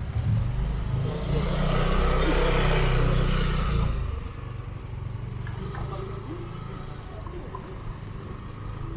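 A motor vehicle's engine passes close by. It swells to its loudest two to three seconds in and falls away about four seconds in, leaving quieter street noise.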